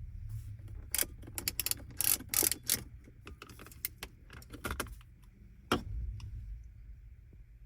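A run of sharp clicks and rattles of small hard objects being handled, busiest in the first few seconds, with a single louder click near six seconds, over a steady low hum.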